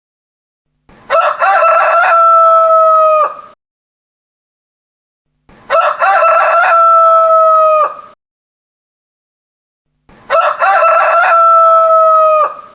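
Rooster crowing loudly three times at even intervals of about four and a half seconds. Each crow lasts about two and a half seconds: a broken opening, then a long held note that drops in pitch as it cuts off.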